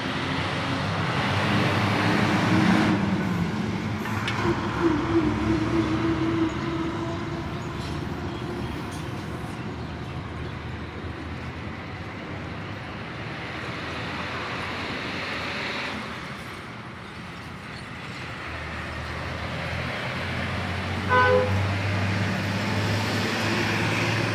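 Steady road traffic noise with a brief vehicle horn toot about three-quarters of the way through.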